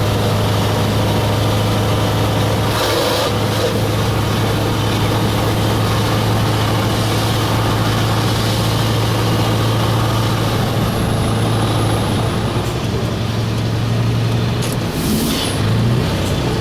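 Scania 4-series V8 truck engine idling with a steady low hum. There are short hisses about three seconds in and again near the end, where the hum shifts.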